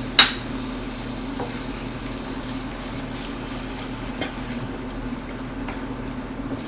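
Sauté pan of mushrooms, mustard and sherry sizzling and simmering, with a sharp metal clink a moment in and a few light taps of a utensil; a steady low hum runs underneath.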